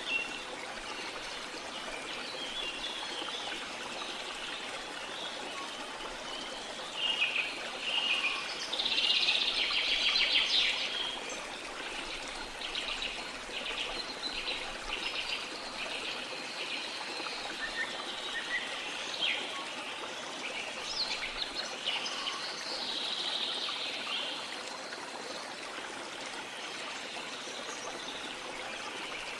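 Small songbirds chirping and trilling over the steady wash of the sea, with a loud run of rapid calls about a quarter of the way in and another burst later on.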